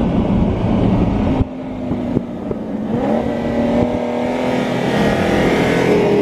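Car engines running hard at high revs, as in a street race. The engine pitch climbs about three seconds in, then holds steady.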